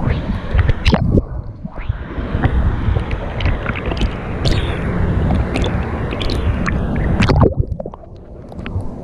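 Wave pool water sloshing and splashing close around the microphone, with low wind rumble and many sharp splash clicks. It drops quieter briefly near the end.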